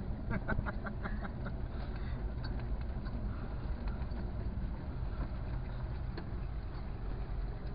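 Car engine running low and steady as the car rolls slowly across a gravel yard, heard from inside the cabin, with a few light clicks in the first second or two.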